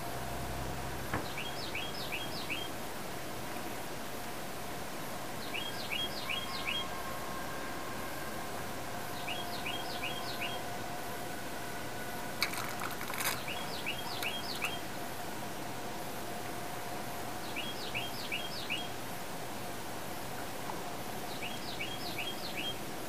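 A bird repeating a short phrase of about four quick high chirps roughly every four seconds, over a steady background hum. A brief clatter comes about halfway through.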